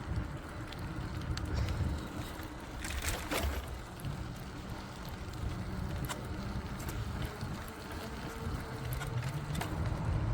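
Bicycle being ridden: a steady low rumble of wind and road noise on the bike-mounted phone's microphone, with scattered small clicks and rattles and a brief louder hiss about three seconds in.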